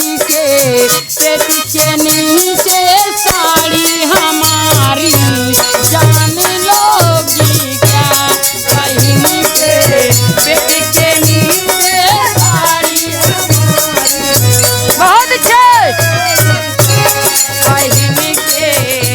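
Bhojpuri birha folk music playing without words: a bending melody over a steadily shaken rattle, joined about four and a half seconds in by a repeating low drum beat.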